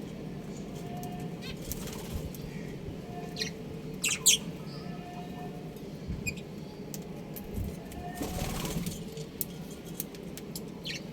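Budgerigars chirping in short scattered calls, the loudest a pair of sharp calls about four seconds in, with wing flapping around eight seconds in, over a steady low hum.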